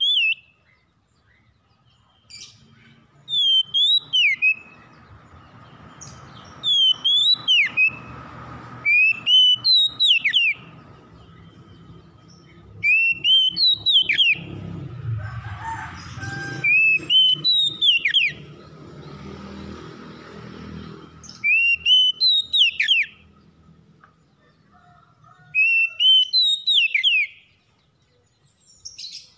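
A songbird singing the same short whistled phrase over and over, every few seconds, each phrase a quick run of rising-then-falling notes. A faint low hum sits underneath, louder in the middle.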